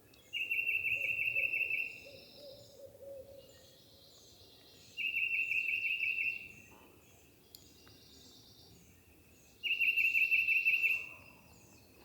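A songbird nearby sings a loud, rapid, high trill three times, each about a second and a half long and roughly four and a half seconds apart. Under the first trill a faint, low, rattling gobble of a distant wild turkey can be heard.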